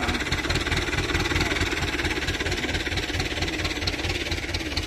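Excavator's diesel engine running steadily with an even low throb.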